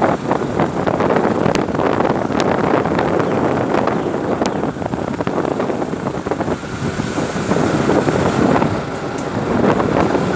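Wind rushing over the microphone during a ride, mixed with steady vehicle and road noise.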